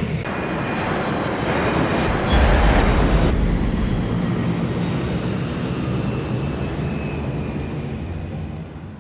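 Airplane noise, a steady rushing roar of a fixed-wing aircraft, used to stand for the plane landing. It is loudest and deepest about two to three seconds in, then slowly fades away near the end.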